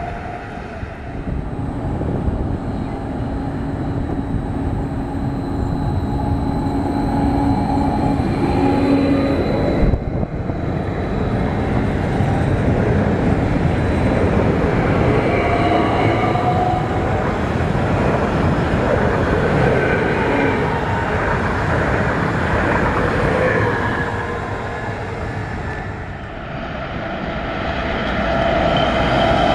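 Electric passenger trains running close past a platform: steady rumble of wheels on rail with some faint whining tones, broken by a sudden cut about ten seconds in. Near the end the sound swells again as another train approaches.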